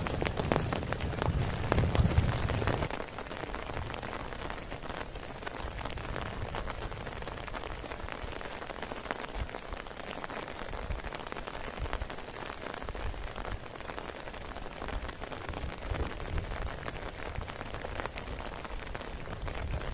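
Heavy rain falling steadily, with dense pattering drops. A low rumble fills the first three seconds and then stops.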